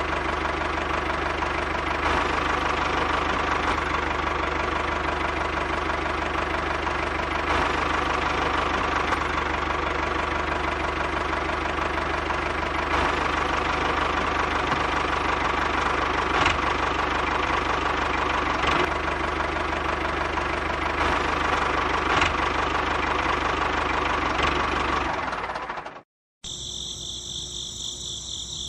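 A small motor runs steadily for most of this stretch, then cuts off abruptly. After a moment of silence, high, pulsing cricket-like chirping follows.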